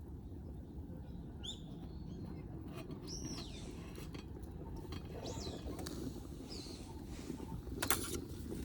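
Wild birds calling outdoors: four or five short, arching chirps spread over several seconds above a steady low background rumble. A sharp click comes near the end.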